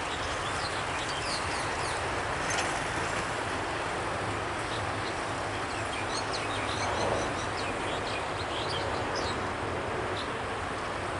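Low steady rumble of a diesel train approaching in the distance, with small birds chirping repeatedly over it.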